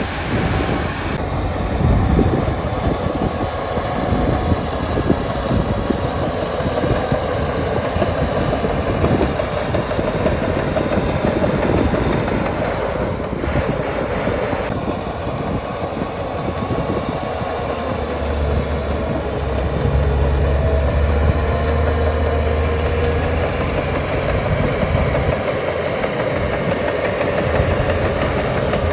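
Crawler bulldozer's diesel engine running steadily with a continuous clanking rattle of its steel tracks. A deeper engine drone joins for several seconds past the middle.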